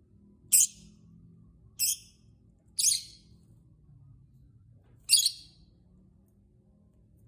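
Lovebird giving four short, high-pitched calls, the first three about a second apart and the last a couple of seconds later.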